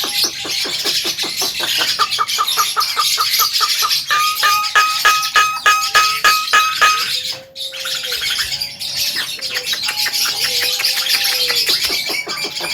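Javan myna (jalak kebo) calling: a rapid run of clicking notes mixed with held whistled tones. There is a short break a little past halfway, after which lower whistles follow.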